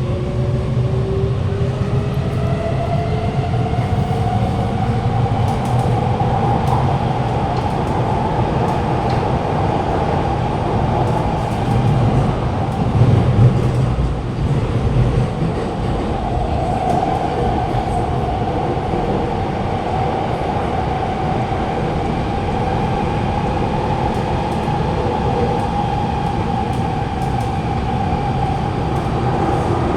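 Alstom Movia R151 metro train running through the tunnel, heard from inside the carriage. The traction motor whine climbs in pitch over the first few seconds as the train accelerates, then holds steady as it cruises, over a constant rumble of wheels on rail.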